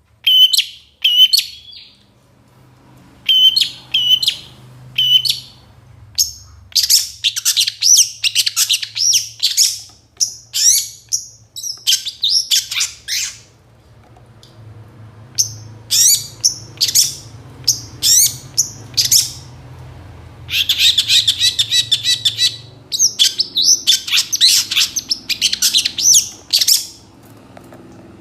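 Long-tailed shrike (cendet) singing a varied song packed with mimicked phrases: short bursts of sharp chirps and whistles, with a dense, rapid trill about two-thirds of the way through.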